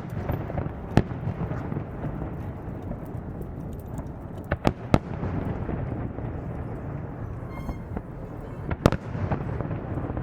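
Aerial fireworks shells bursting, with sharp bangs about a second in, a quick pair around the middle and another near the end, over a continuous noisy background.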